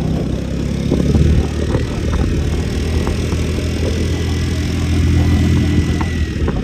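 A motor vehicle engine running steadily at a low, even pitch, with a faint high whine through the middle.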